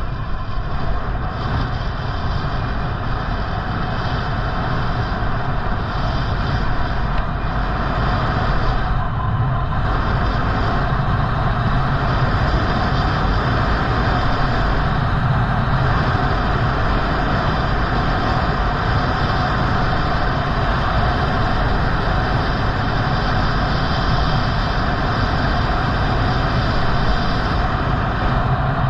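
Steady rush of wind over the microphone, with road noise from riding, unbroken throughout.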